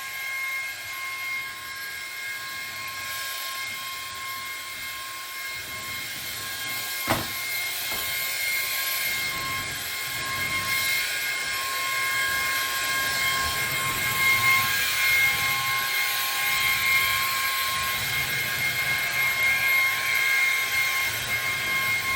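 Ryobi cordless stick vacuum running with a steady high whine over a hiss of rushing air, with a single sharp click about seven seconds in. It gets a little louder in the second half.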